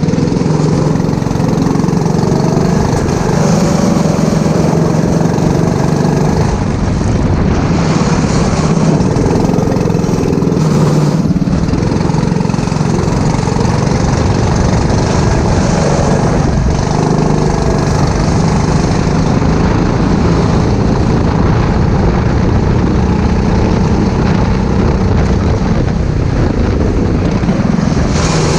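Go-kart engine running hard on track, with brief dips a few times as the throttle is lifted.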